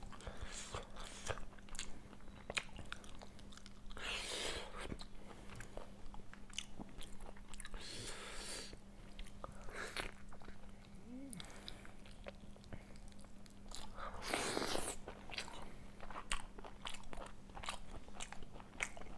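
Close-miked mukbang eating of macher jhol, a Bengali fish curry: steady chewing with wet mouth clicks and smacks. A few longer breathy swishes come about four, eight and fifteen seconds in, over a faint steady hum.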